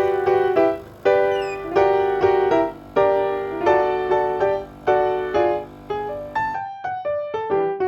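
Background piano music, notes and chords struck in short phrases, each one fading before the next.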